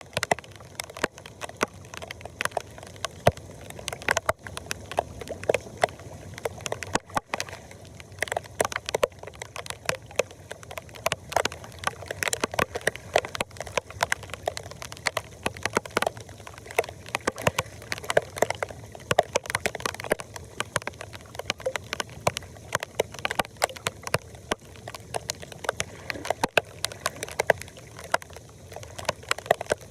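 Floodwater sloshing and gurgling, with many irregular sharp splashes and clicks throughout.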